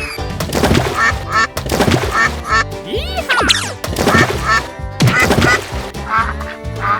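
Cartoon background music with a string of short, repeated, quack-like comic sound effects and a sliding whistle-like glide about three seconds in.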